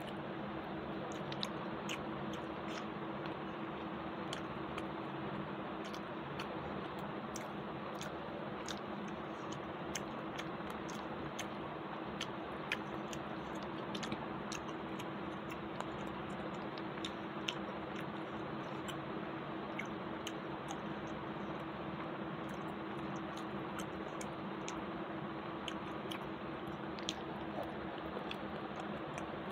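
A person chewing rice and curry eaten by hand, with many small sharp mouth clicks and smacks scattered throughout, over a steady low hum and hiss.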